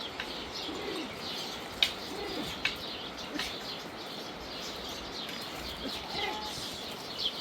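Birds chirping repeatedly in short high calls, with a few lower calls mixed in. Two sharp clicks come about two seconds in.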